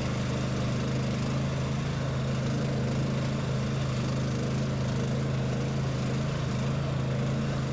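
Engine of a Druzhok motorized snow tow running steadily under way, an even drone.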